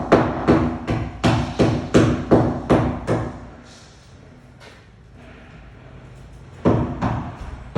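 Hammer blows, about three a second, with a slight metallic ring; they stop about three seconds in and start again near the end.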